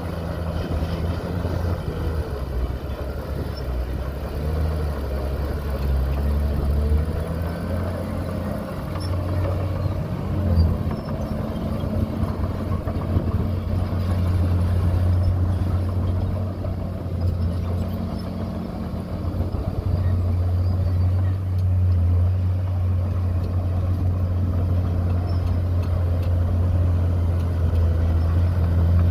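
Heavy diesel engine of earthmoving machinery running, a strong low engine note that changes pitch and load a few times.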